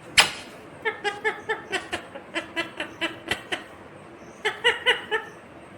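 Indian ringneck parakeet giving a rapid run of short chattering calls, then a second brief burst of them near the end, after a sharp click about a quarter of a second in.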